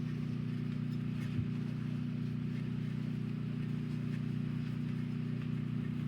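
Steady hum of an electric motor running at constant speed, with no change in pitch or level.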